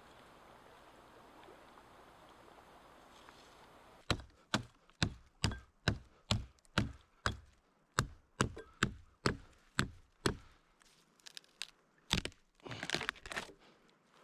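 Wood being chopped: sharp chopping blows about two a second, starting about four seconds in. After a dozen or so strokes the blows turn irregular, ending in a short cluster of quick cracks.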